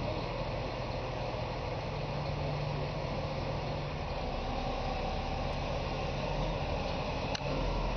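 Heavy diesel engine of tyre-handling machinery running steadily with a low hum, and a single sharp click near the end.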